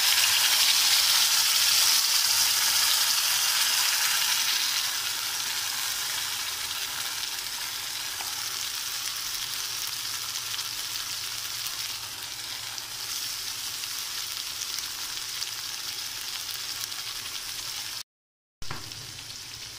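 Onion, garlic and ginger paste sizzling in hot oil in a kadai. The sizzle is loudest as the paste goes in and settles to a quieter, steady sizzle after about five seconds.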